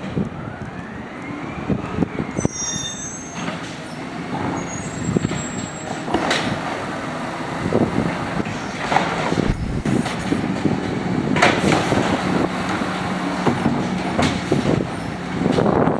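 Automated side-loader garbage truck working its lifting arm: a whine that rises and falls, a brief high metallic squeal, then a series of clunks and bangs over the truck's steady running hum.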